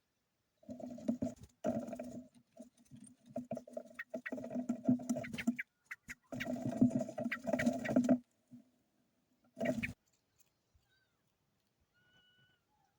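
Birds moving and calling: a run of choppy noisy bursts mixed with clicks that stops and starts, then a faint short chirp near the end.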